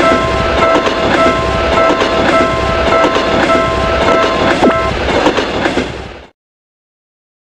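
Sound effect of a train running through a level crossing, a loud rumble and clatter. Under it the crossing warning bell keeps ringing until about five seconds in. All sound cuts off suddenly about six seconds in.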